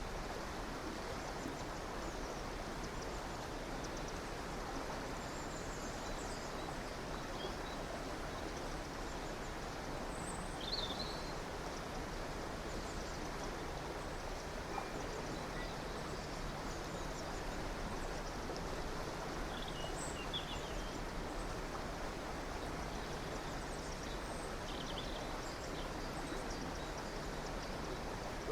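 A river running steadily, with a few short, high bird chirps now and then, the clearest about a third of the way in.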